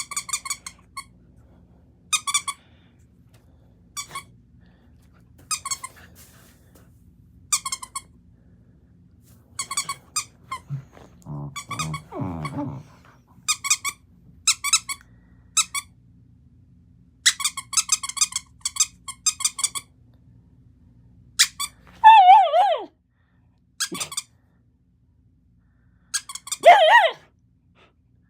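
Bedlington terrier whining: short, high-pitched whimpers every second or two, with two louder, wavering cries near the end.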